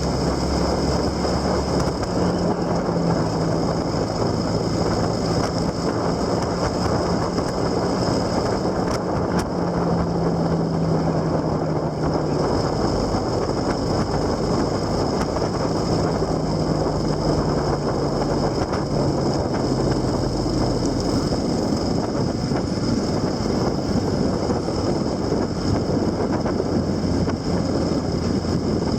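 Vehicle in motion: steady wind and road noise with an engine running underneath, its low note shifting in pitch now and then.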